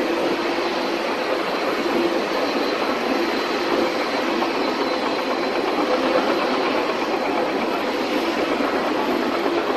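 Boeing 777-300ER jet engines running with a steady rushing noise and a faint underlying hum.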